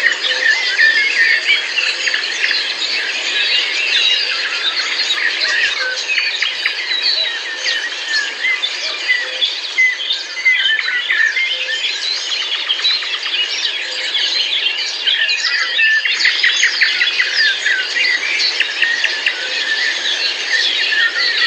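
Many birds chirping and calling at once in a dense, overlapping chorus of short high chirps.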